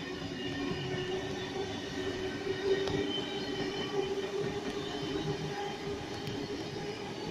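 Double-deck electric suburban train passing on the tracks: a steady running sound with a held hum and several thin high-pitched tones over it.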